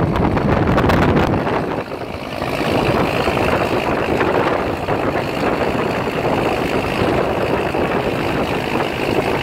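Passenger train running along the line, heard from beside an open carriage window: a steady rumble of wheels on the rails mixed with rushing air. A few quick clicks come about a second in.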